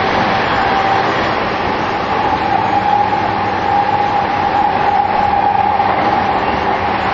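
Interior running noise of a JR East E233-2000 series electric train travelling through a subway tunnel: a steady rumble of wheels and motors, with a whine that rises slightly in pitch about two seconds in and then holds.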